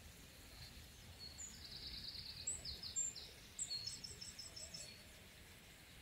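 Songbirds singing: a run of high, quick trills and repeated chirping notes between about one and five seconds in, over faint background noise.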